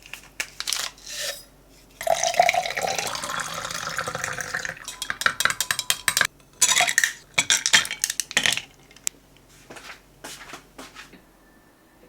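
Dishes and utensils clattering and clinking in a kitchen, with a few seconds of running water from about two seconds in.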